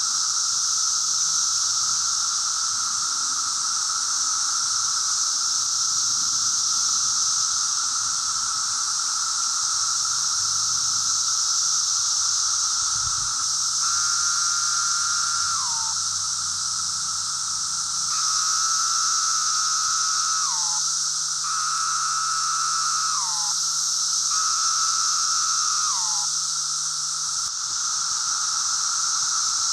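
Periodical cicadas chorusing: a dense, steady, high-pitched buzz with a lower steady drone under it. In the second half, four nearer individual calls of about two seconds each rise out of the chorus, each falling in pitch as it ends.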